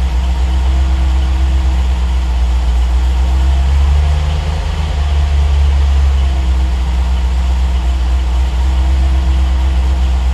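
Triumph TR8's 3.5-litre Rover V8 idling while warming up after a cold start. The idle speed shifts a little around the middle: a little surge, from a warm-up mixture that runs slightly lean.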